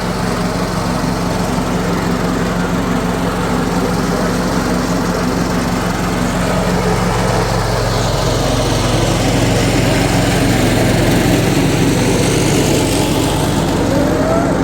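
An engine running steadily at an even speed, with a constant low hum and a mechanical rattle.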